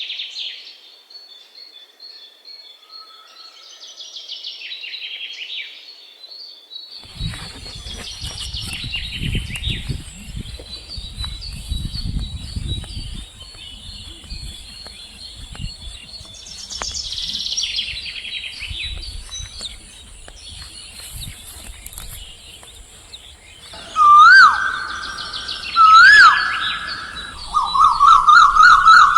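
Several birds chirping and singing in high, rapid phrases. About two thirds of the way in, three loud whistled calls with rising sweeps stand out, over a low rumble and a steady high insect-like hiss.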